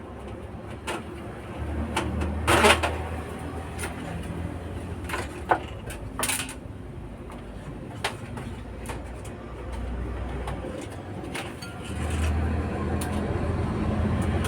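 Scattered clicks and knocks of tools and parts being handled on a workbench, with the loudest cluster a couple of seconds in. A low rumble swells and fades underneath.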